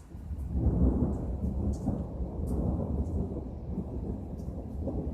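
Rolling thunder: a low rumble that sets in about a third of a second in, peaks about a second in, and keeps rumbling unevenly to the end.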